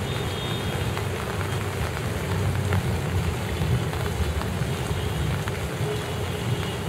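Heavy rain falling steadily, a dense even hiss, with a constant low rumble underneath.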